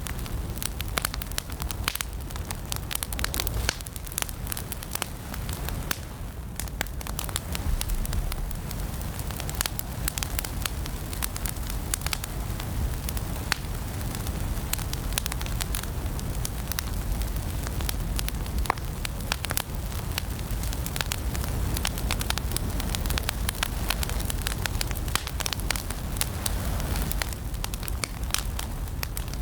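Wood fire burning in a fireplace: a steady low rumble of the flames with dense, irregular crackles and pops throughout.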